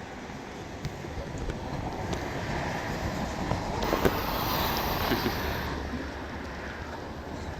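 Road traffic noise as a vehicle drives past, swelling to its loudest about halfway through and then fading, with no siren.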